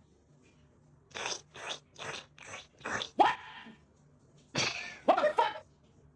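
A pet animal making a series of short, noisy sounds about two a second, then a few louder calls that slide in pitch near the middle and towards the end.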